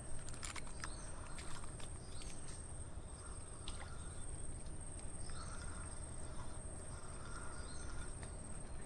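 Outdoor ambience: a steady high-pitched insect trill, a few faint bird chirps and occasional small clicks, over a low rumble of background noise.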